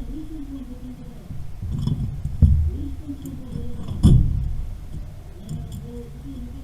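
Two sharp knocks from hand work on pipes and fittings, about two and a half and four seconds in, the second the louder, over low murmured voices.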